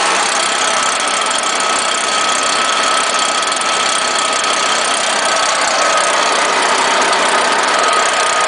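Stihl BR420 Magnum backpack leaf blower's 57cc two-stroke engine running steadily soon after a cold start, its pitch drifting slightly lower.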